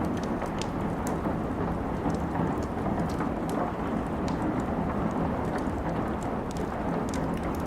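Steady rain making a dense, deep hiss, with scattered sharp crackles and pops from a wood fire.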